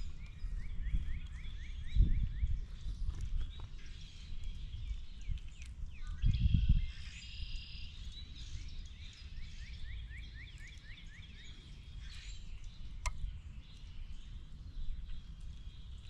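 A small songbird singing a fast trill of short rising notes, about six a second, heard twice, over a constant low rumble from outdoors with louder gusts. A single sharp click comes near the end.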